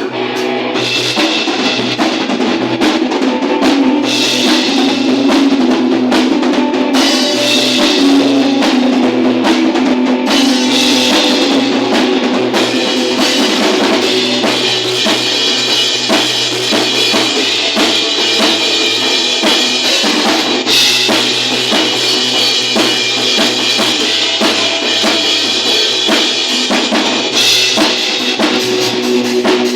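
Live band playing a song: a full drum kit with bass drum and snare driving it, over a bass line that steps between notes.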